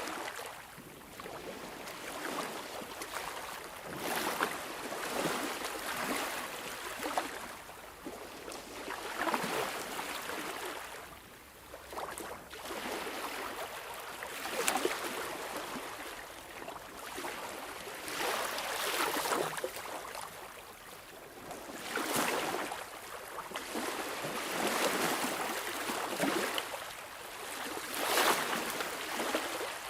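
Sea waves washing in, a hiss of water that swells and fades every few seconds with little deep rumble.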